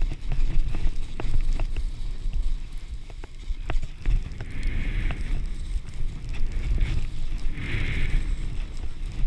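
Wind buffeting the microphone during a fast downhill run on a groomed ski slope, with scattered ticks and two hissing swells, about five and eight seconds in, as the edges carve through the snow in turns.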